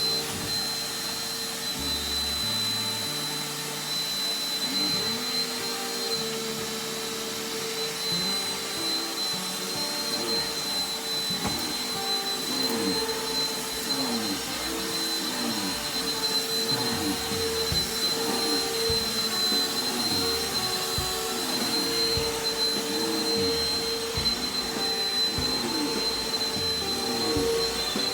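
Vacuum cleaner running steadily on carpet, a continuous motor whine over the rush of air.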